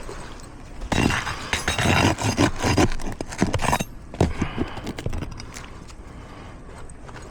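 Steel flat bar prying and scraping under an asphalt shingle, working a roofing nail loose. About a second in, a dense run of scraping and clicks lasts about three seconds, followed by a few lighter knocks.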